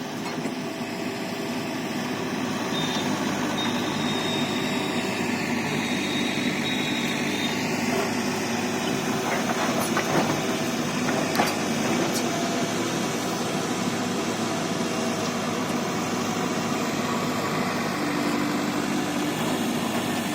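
Sonalika tractor's diesel engine running steadily, with a couple of sharp knocks about halfway through.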